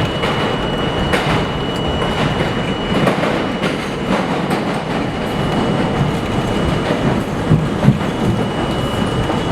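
New York City subway train running, a steady rumble with its wheels clattering over the rail joints. A thin high whine sounds for the first few seconds, and two sharp knocks come near the end.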